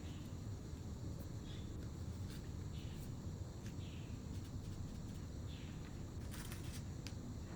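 Steady low room hum with faint small scrapes and taps of hand-sculpting coarse chamotte clay, and a brief rustle about six seconds in.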